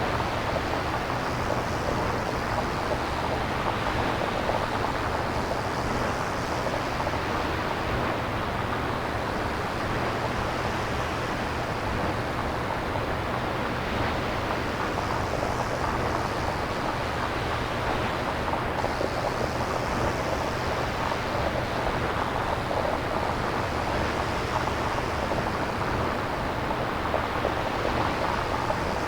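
Synthesized nature ambience made without recorded samples: a steady, surf-like rushing noise that swells and eases slowly every several seconds, over a faint low hum.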